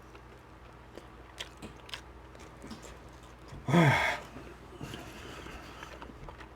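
Close-up chewing of a smoked beef rib: faint, scattered wet mouth clicks and smacks. About four seconds in, a short voiced sound from the eater with a falling pitch, the loudest moment.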